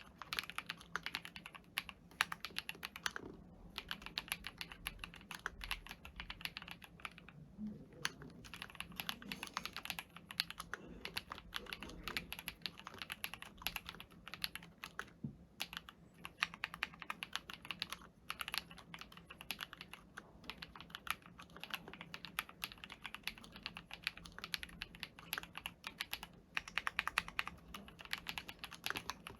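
Fast typing on a custom keyboard: a dense run of keystrokes with a few brief pauses.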